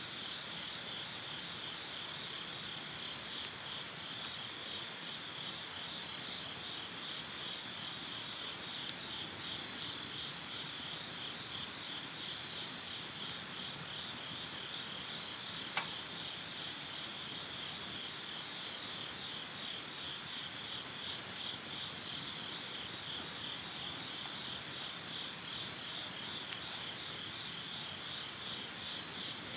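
Insects chirping in a steady, rapidly pulsing chorus, with one sharp click a little over halfway through.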